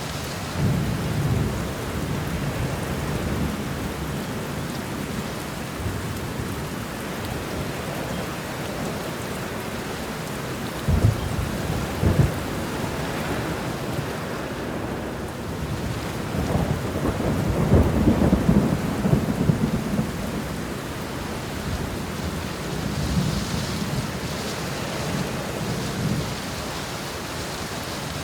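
Steady rain with thunder. Two sharp cracks of thunder come about eleven and twelve seconds in, followed by a longer rumble a few seconds later and a weaker one near the end.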